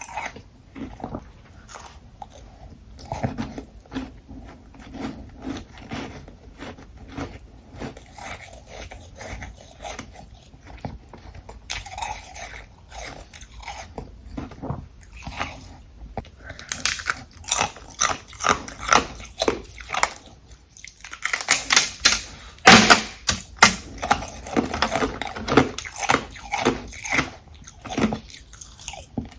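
A person biting and chewing ice close to the microphone: a steady run of crunches, softer through the first half and louder and denser from about halfway on.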